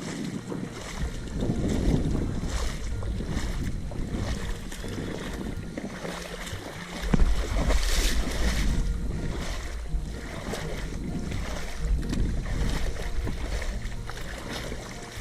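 Wind buffeting the microphone: a low rumble that swells and eases, loudest about seven seconds in, with scattered short rustles over it.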